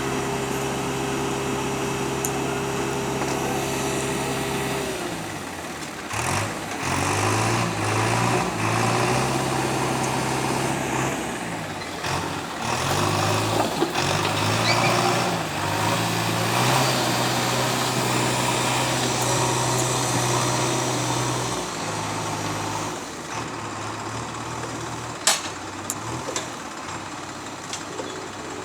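Heavy diesel machinery engines running, steady at first and then revving up and down repeatedly from about five seconds in, as under changing load while a stuck tractor is pulled out; the engine note settles lower near the end, with one sharp knock.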